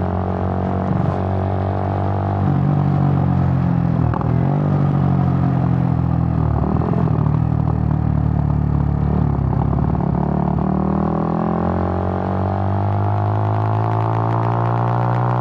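Suzuki GN125's single-cylinder four-stroke engine running while riding, holding a steady drone with a few brief dips, then rising steadily in pitch in the last few seconds as it accelerates.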